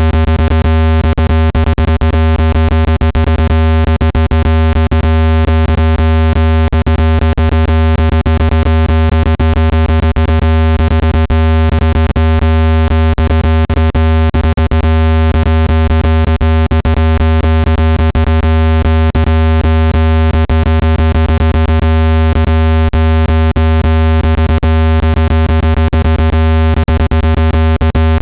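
Loud, steady synthetic low tone with a stack of buzzy overtones and frequent small clicks through it: a speaker-cleaning sound wave, played at full volume to shake trapped water out of a phone speaker.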